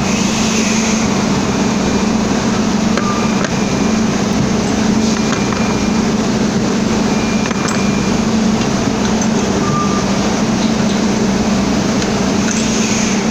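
Milling machine running steadily with a constant hum while face-milling the side of a bearing cap, with a few light clinks.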